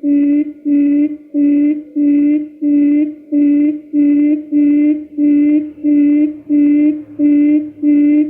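Recorded quail lure call: a low hooting note repeated evenly, about twice a second, each note with a thin higher buzz over it.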